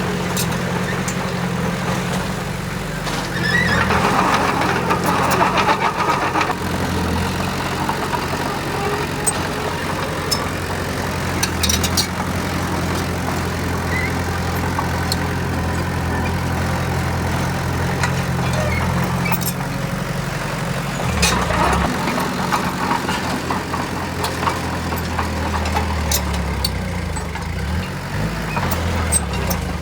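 Heavy construction machine's diesel engine running steadily, with two louder surges, about four seconds in and again around twenty seconds in, and a few sharp clicks.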